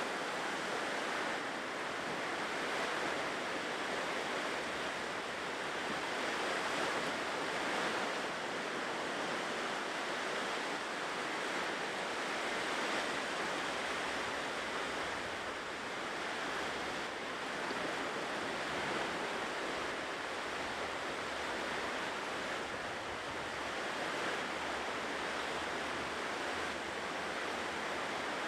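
Ocean surf washing continuously on a shore, a steady rush of breaking waves that swells and eases only slightly.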